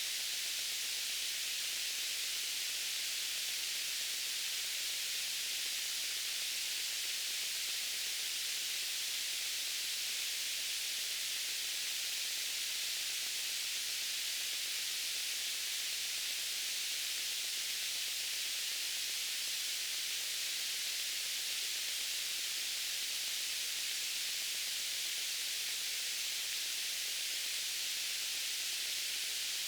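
Steady white-noise hiss, bright and even, weighted toward the high range.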